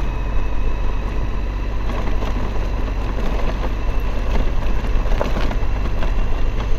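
Suzuki V-Strom 1050's V-twin engine running at a steady riding speed, with tyres rolling over gravel and rocks and a scatter of sharp stone clicks.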